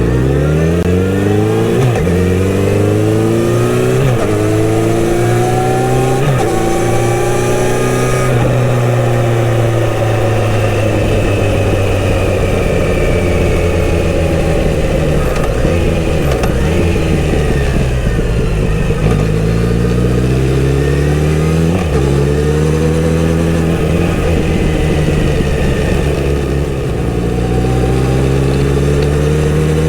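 Kawasaki Z900RS inline-four engine through its stock exhaust, accelerating up through several gears with a quick drop in pitch at each upshift. It then runs at a steady cruise, eases off, and pulls up through the gears again near the end.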